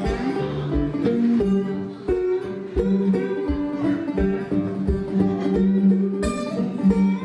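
Acoustic guitar playing an instrumental break in a country-style song, with a steady low beat underneath at about two beats a second.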